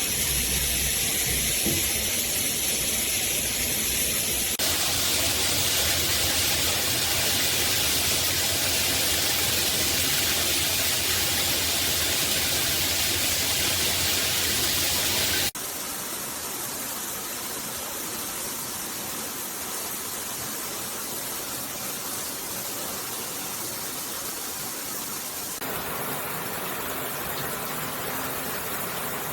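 Shower head spraying water, a steady hiss. Its tone and loudness change abruptly three times, about 4.5, 15.5 and 25.5 seconds in.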